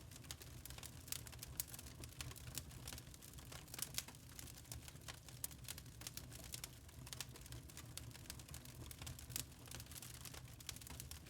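Wood fire in a fireplace crackling: many small sharp pops and snaps at irregular times over a low steady rumble of the burning logs.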